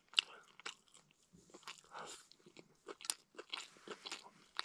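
Close-up chewing and lip-smacking of a person eating stewed beef, with a few sharp clicks along the way.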